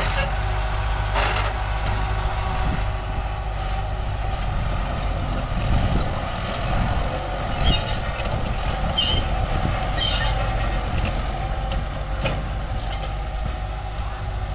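Diesel engines of a mini bulldozer and a dump truck running steadily during a mud recovery, with a few sharp knocks along the way.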